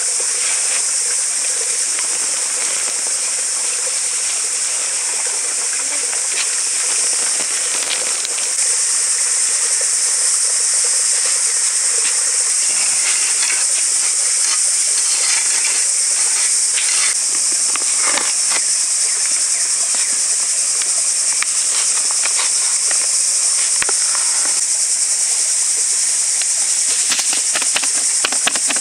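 Steady, loud, high-pitched drone of a forest insect chorus, with scattered small clicks and rustles underneath and a run of quick ticks near the end.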